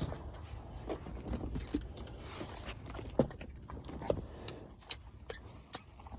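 Scattered light knocks, clicks and rustles of things being handled and set down, over a low steady rumble.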